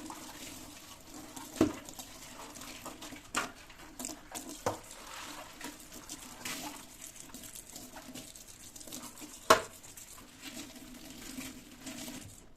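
Water running from a kitchen tap into a sink, with dishes clinking now and then; the sharpest clink comes about nine and a half seconds in.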